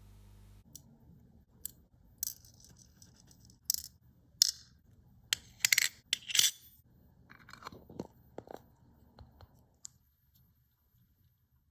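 Watchmaker's tools and small metal watch parts clicking, clinking and scraping during hand work on a watch: an irregular string of sharp clicks and short scrapes, loudest in the middle.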